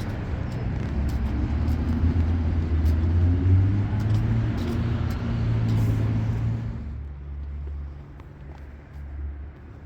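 Road vehicle engine running with a steady low hum whose pitch shifts through the middle. About seven seconds in it drops to a quieter low rumble.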